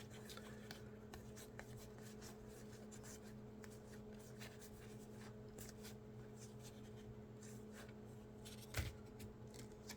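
Faint rustling and light flicks of trading cards being handled and slid through the hand, over a steady low hum, with one sharper click near the end.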